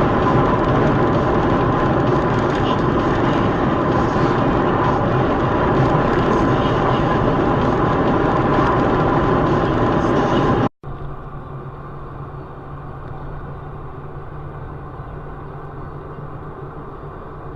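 Car driving noise as picked up by a dashcam: a steady, loud rush of road and engine noise. About eleven seconds in it cuts off abruptly to a quieter, duller hum.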